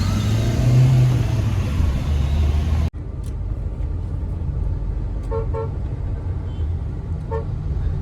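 Road traffic: a low vehicle engine rumble that swells and fades, breaking off abruptly about three seconds in, then a steadier traffic rumble with a car horn tooting twice in quick succession about halfway through and once more near the end.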